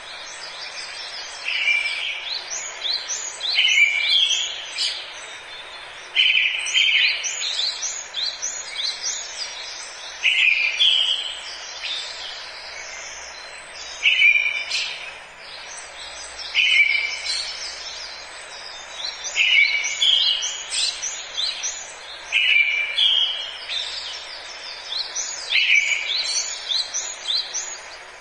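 Forest birds singing: one bird repeats a short song phrase every few seconds, about ten times, with other chirps between, over a steady hiss of background noise.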